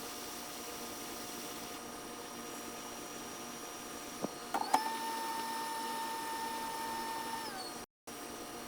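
Steady electrical hum of bench equipment. Two clicks, then a small motor whines at one pitch for about three seconds, rising in at the start and sagging as it winds down near the end.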